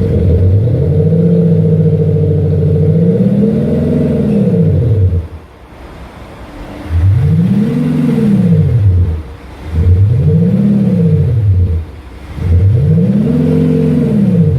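BMW X5 diesel with an aftermarket active sound generator playing a synthetic exhaust note as the engine is revved: one long rev that rises, holds and falls back, then after a short drop to idle three quicker rev blips, each rising and falling in pitch.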